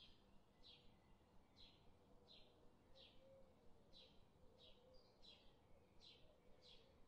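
Faint bird calls: a short high chirp, each falling in pitch, repeated irregularly about once every two-thirds of a second.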